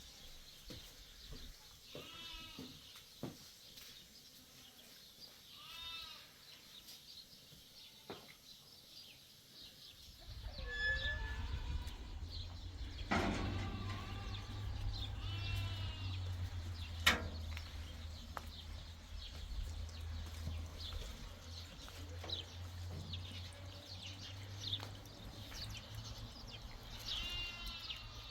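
Goats bleating, about six short calls spread out, with a few sharp clicks. A steady low rumble sets in about a third of the way through.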